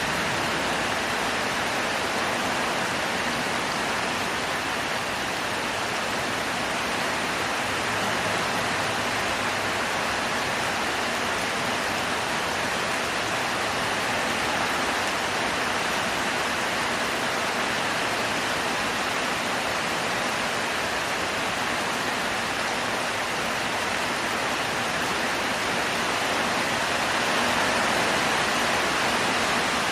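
Heavy tropical downpour, a steady dense hiss of rain with no let-up.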